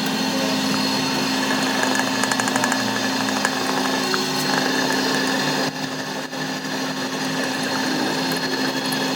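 Steady hum of a running workshop machine tool, with a brief drop in level about six seconds in.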